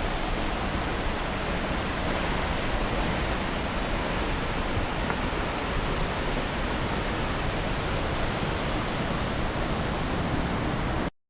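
Steady roar of rushing water, such as a waterfall or mountain river, as one even noise that cuts off abruptly just before the end.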